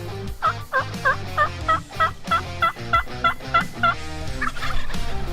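A run of about a dozen evenly spaced turkey yelps, about three a second, stopping about four seconds in. Background music plays underneath.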